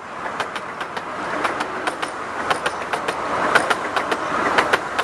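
Miniature railway train passing close by, its wheels clicking irregularly over the rail joints, the sound swelling to a peak about three and a half seconds in.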